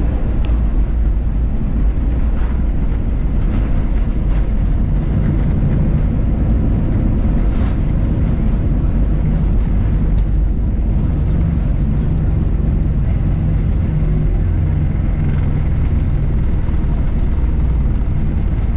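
Steady low rumble of an airliner heard from inside the passenger cabin during the landing, with a few light knocks in the first half.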